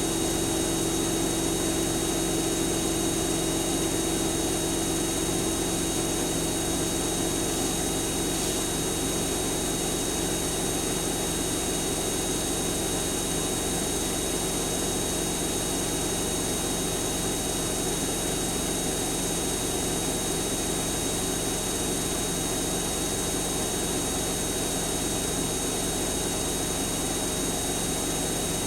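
Siemens Siwamat iq 716 washing machine running steadily without a break, a constant machine whine with several steady tones over a rushing noise, typical of the drum spinning at speed.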